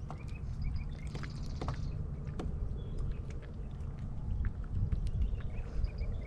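Strong wind buffeting the microphone, a steady low rumble, with scattered sharp clicks and a few brief high chirps over it.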